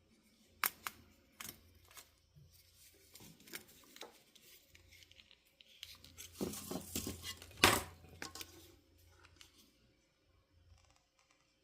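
Small clicks, taps and rustles of hands handling a power-cord wire and soldering tools while the wire is pre-tinned with solder. A louder rustling, scraping stretch comes about six to eight seconds in and ends in a sharp click.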